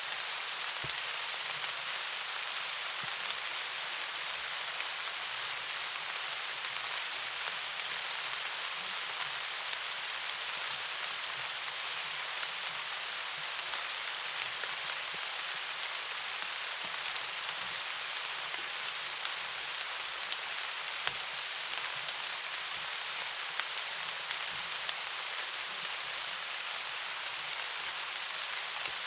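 Steady, even rainfall, with a few sharper drop ticks scattered through it.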